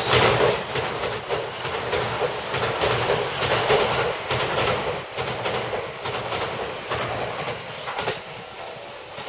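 JR West 223/225 series electric multiple unit running alongside the platform, its wheels clicking over rail joints. It grows quieter near the end.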